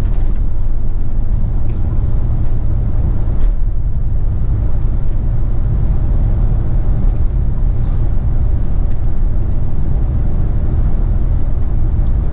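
Steady rumble of a 1990 Ford F-150's 5.0 V8 and its road noise, heard from inside the cab while cruising.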